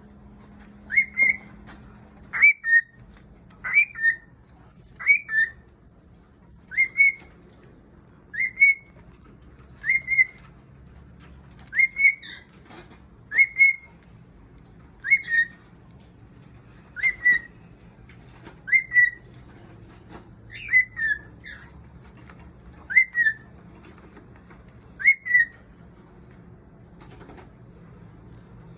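Cockatiel repeating a short two-note whistled call about every one and a half to two seconds, about fifteen times, then falling quiet near the end.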